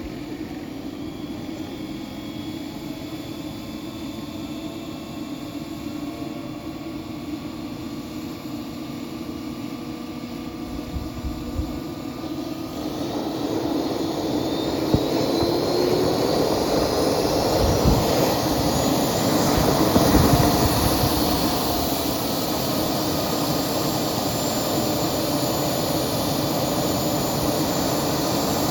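Model jet's turbine engine starting up: a steady spinning sound, then from about halfway through a whine that rises in pitch and loudness as the turbine spools up, settling into a steady high whine near the end.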